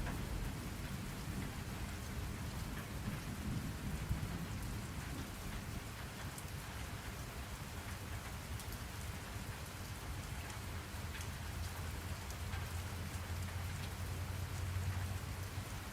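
Steady rain falling, with a low roll of thunder dying away over the first few seconds.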